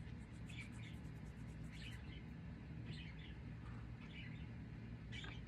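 Parakeet chirping softly: short, high chirps about once a second, over a faint steady low hum.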